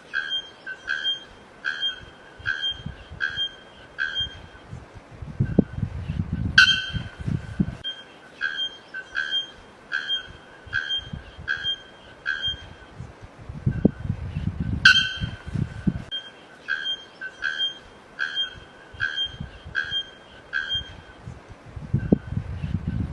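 A bird-like call repeated: short, steady-pitched chirps about one and a half a second, in runs of six or seven. Each run is broken by a low puffing rush of about two seconds with a sharp crack in it, twice and starting again at the end.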